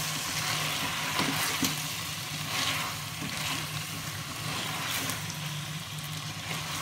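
Chicken korma sizzling in pooled oil in a steel pot as the dish nears readiness, stirred and scraped with a silicone spatula, over a steady low hum.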